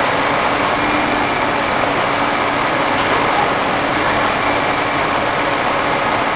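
Truck engine running steadily, a constant even drone with no change in pitch.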